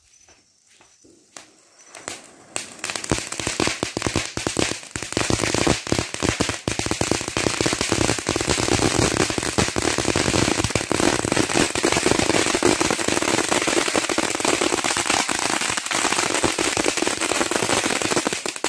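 Vulcão (volcano) fountain firework spraying sparks: a dense, continuous crackling hiss that builds up about two seconds in, holds steady, and tails off at the very end.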